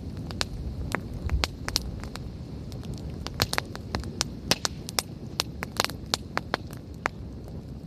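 Campfire crackling: burning wood gives off frequent, irregular sharp pops and snaps over a low, steady rumble of the flames.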